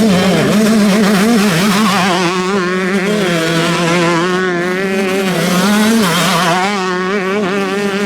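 Motocross bike engines running hard, their pitch rising and falling with the throttle, over a steady engine drone.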